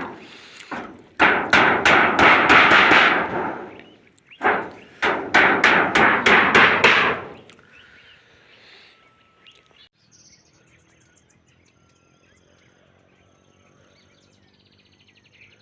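Hammering on corrugated iron roofing sheets (mabati): two runs of quick, ringing blows, about three or four a second, each lasting a few seconds. The hammering stops about halfway through.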